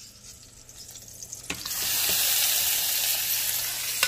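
Chopped onion, tomato and hot dog slices going into a hot frying pan: after a clack about a second and a half in, they start sizzling loudly and keep up a steady sizzle.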